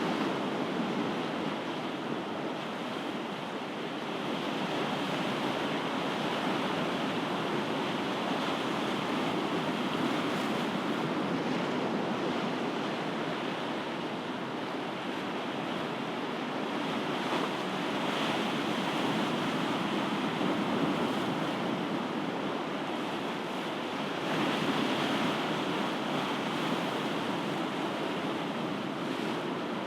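Ocean surf: waves washing in as a steady rushing noise, swelling slightly louder a few times.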